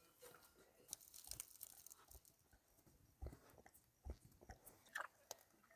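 Faint, irregular crunching and clicking, a few soft crunches spread over several seconds.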